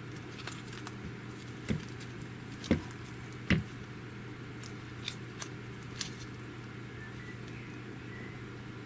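Light clicks and taps from handling a folding phone and picking at its peeling plastic screen protector. There are about half a dozen, scattered and irregular, with the loudest about three and a half seconds in, over a steady low hum.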